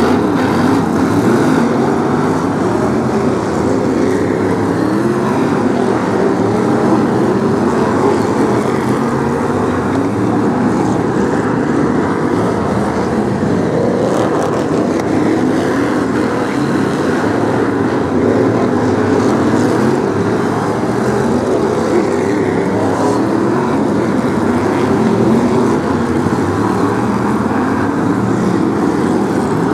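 A pack of BriSCA F1 stock cars racing, their V8 engines running hard in a loud, steady, overlapping din with pitch wavering as cars pass.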